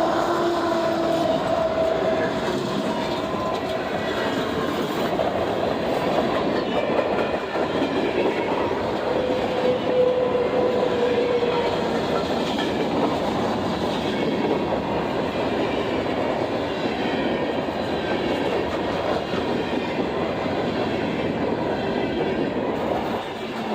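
A train rolling past on the track, its wheels clacking over the rail joints in a steady rumble that lasts throughout. A thin squealing tone rises out of it at the start and again about ten seconds in.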